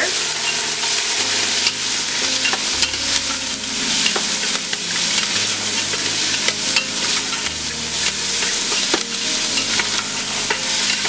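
Chopped onion, peas, raisins and cashews sizzling in hot oil in a stainless steel pot while being stirred with a wooden spoon, with a few light knocks of the spoon against the pot.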